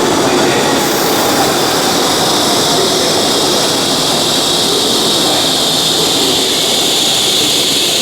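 Train running noise: a loud, steady rush with a high whine that slowly falls in pitch.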